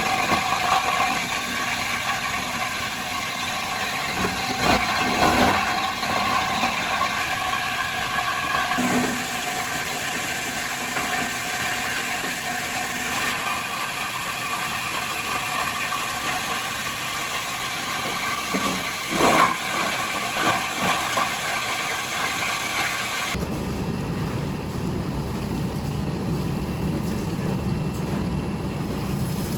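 Machinery in a plastic-recycling workshop running steadily, with a few sharp knocks. About three-quarters of the way through, the sound switches abruptly to a lower, heavier machine noise.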